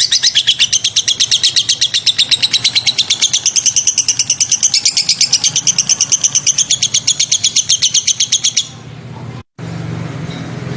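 A songbird gives a fast, evenly repeated high chirping of about ten notes a second that stops abruptly about nine seconds in. A low steady hum follows, after a brief dropout.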